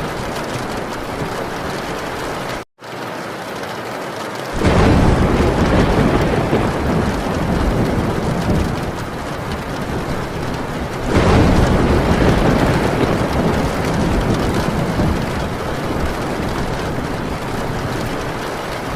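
Heavy rain falling on a metal tin roof, with thunder rumbling in twice: a deep surge about four and a half seconds in and another about eleven seconds in. The sound drops out for a split second near the start.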